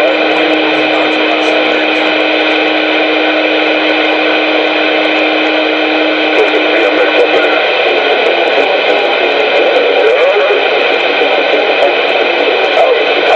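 CB radio receiver audio: a loud, noisy transmission with several steady whining tones laid over it. A low hum-like tone drops out about seven seconds in.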